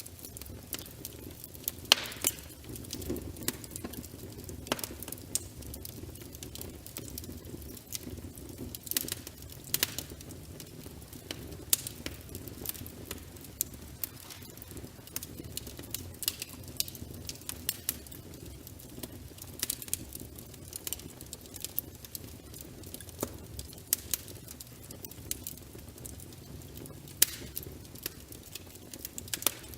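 Wood fire in a fireplace crackling, with irregular sharp pops and snaps over a steady low rumble of flame. The loudest pops come about two seconds in and again near the end.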